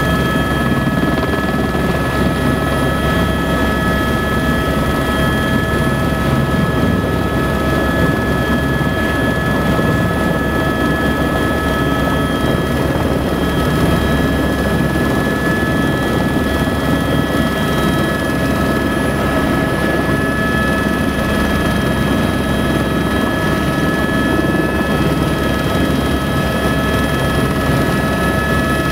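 Helicopter running steadily: the rotor's noise with a constant high turbine whine over it, holding level with no change.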